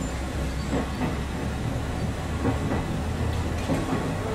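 Izu Hakone Railway Sunzu Line electric train running along the track, heard from inside the driver's cab: a steady rolling rumble with a few wheel clicks over the rail.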